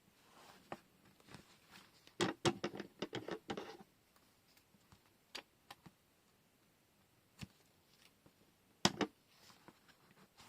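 Desk crafting handling noises from washi tape rolls and paper: a dense crackling patch about two seconds in that lasts under two seconds, then a few separate clicks and taps, the sharpest near the end.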